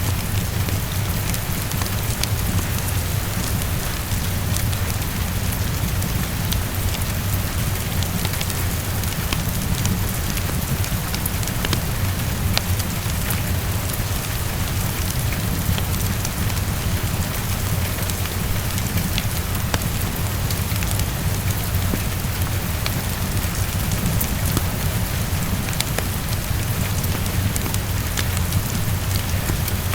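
Steady heavy rainfall with a low, even rumble underneath and scattered sharp crackles from a fireplace fire.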